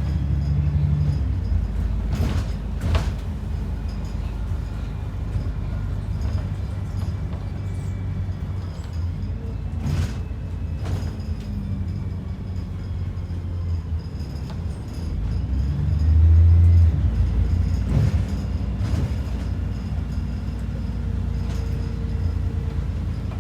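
ADL Enviro 400 double-decker bus heard from on board: a steady engine and road rumble, with several short knocks and rattles, mostly in pairs about a second apart. The low rumble swells louder for about a second around sixteen seconds in.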